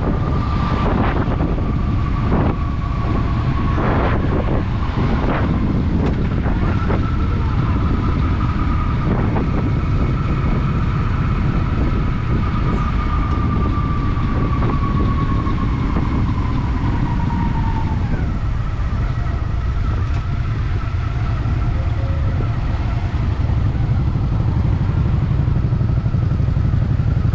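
Honda Shadow VT750's V-twin engine running while the motorcycle is under way, under heavy wind rush on the camera microphone. There are a few knocks in the first seconds, and a thin high whine slowly drifts lower and fades out about two-thirds of the way through.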